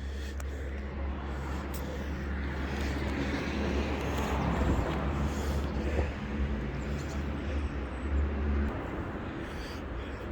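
Street traffic: a car passes, loudest about halfway through, over a steady low engine hum that cuts off near the end.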